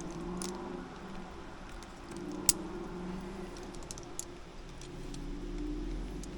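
Metal climbing gear (carabiners and hardware on a harness and rappel rig) clinking and jingling in small scattered clicks as a climber moves onto rappel, with one sharper click about two and a half seconds in.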